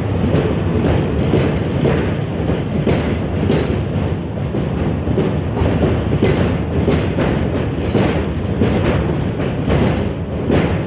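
New York City subway train running through the station, its wheels clacking repeatedly over the rail joints above a steady rumble.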